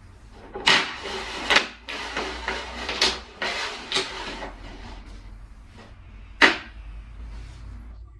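A run of sharp knocks and bangs, about five over six seconds, the last one standing apart, with scraping and rustling between the early ones.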